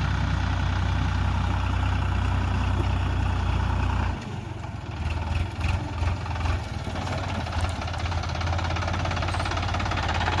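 Sonalika RX42 tractor's diesel engine running steadily. About four seconds in, its sound drops and turns uneven for a few seconds, then settles back into a steady run.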